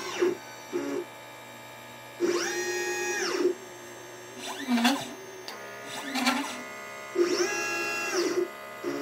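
LitePlacer pick-and-place machine's stepper motors whining as the gantry moves. There are short moves near the start and around 5 and 6 seconds in, and two longer ones about 2 and 7 seconds in. On each move the whine rises in pitch as the head speeds up, holds, then falls as it slows, over a steady machine hum.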